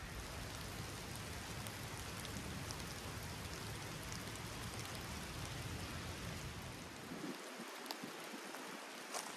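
Steady rain falling, an even hiss, with a low rumble underneath that drops away about seven seconds in; a few sharper drop ticks near the end.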